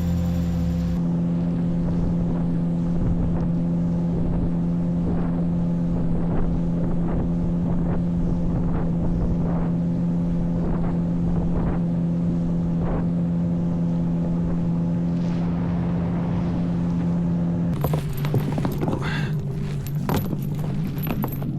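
Motor boat engine running at a steady speed with a constant hum. About eighteen seconds in it is throttled back and drops in pitch.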